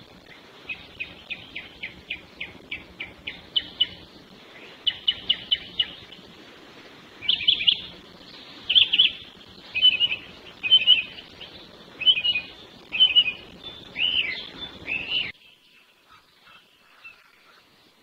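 Wild birds singing: first a quick run of repeated high chirps, about three a second, then louder short phrases at intervals of about a second. The recording cuts off abruptly about fifteen seconds in, leaving only faint chirps.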